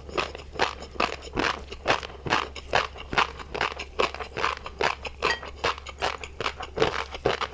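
Close-miked chewing of a mouthful of tobiko (flying fish roe), a fast run of small crisp pops and crunches, several a second.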